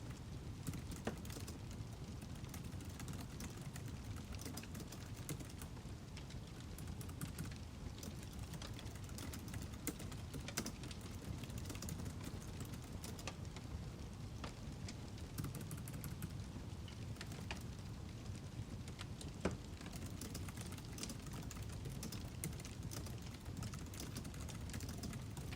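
Wood fire crackling: irregular sharp pops and snaps over a steady low rumble of burning logs, with one louder pop about three-quarters of the way through.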